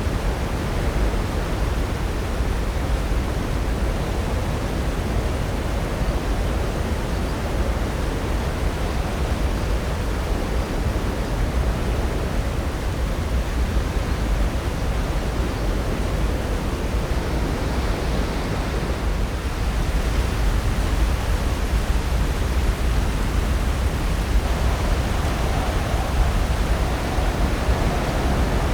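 Pacific Ocean surf breaking along the shore, a steady rushing wash without separate crashes, swelling a little near the end.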